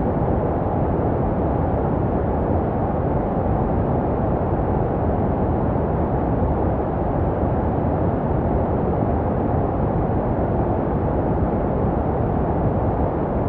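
Steady, unchanging white noise for baby sleep, deep and muffled, with little treble. It is made to resemble the sounds a baby hears inside the womb.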